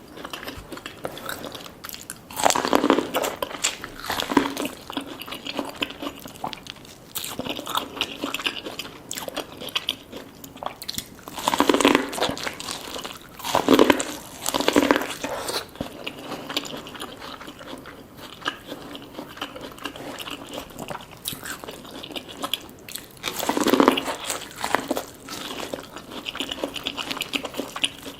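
Close-miked mukbang eating: a person biting and chewing a Cajun chicken tortilla and sweet corn. A few louder crunchy bites stand out among steady chewing.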